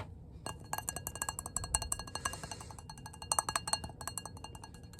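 Rapid tapping on a three-wick candle jar, many quick taps a second starting about half a second in, each tap ringing with the same few clear tones.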